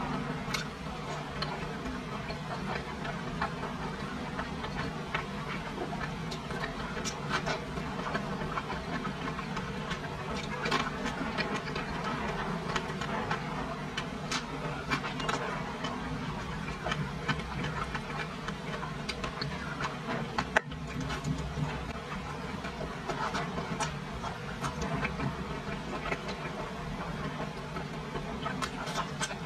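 Close-up chewing and mouth sounds of someone eating braised pork belly, with many small wet clicks over a steady background hiss and one sharper click about two thirds through.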